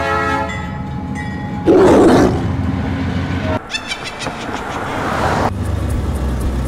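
Train sound effects: a horn-like whistle tone at the start, a loud burst of hiss about two seconds in, then rumbling and clatter settling into a steady low rumble near the end.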